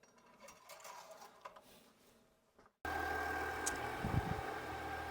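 Faint clicks and rustles, then about three seconds in the steady idle of a Duramax LM2 3.0-litre inline-six turbodiesel cuts in abruptly. The engine is being run just after a fresh oil fill, to circulate the new oil before the level is checked.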